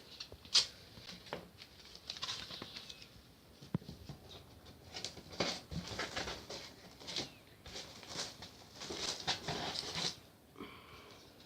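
Masking tape being pulled off its roll and pressed onto polystyrene foam panels: an irregular series of short rips, crackles and rustles.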